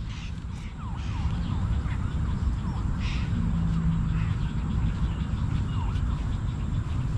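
A steady low rumble that grows louder about a second in, with many short chirping calls overlapping throughout.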